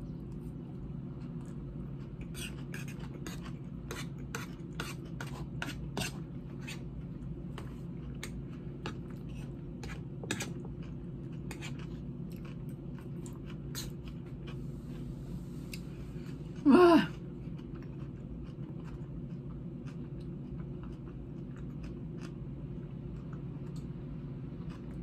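Close-miked chewing of a crunchy salad, heard as a run of sharp crisp crunches and clicks through roughly the first half, over a steady low hum. About two-thirds of the way in there is one short, loud voiced sound.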